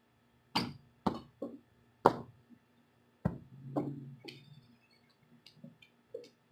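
Several sharp knocks and thumps at irregular intervals, the loudest about two seconds in, followed by a few faint ticks.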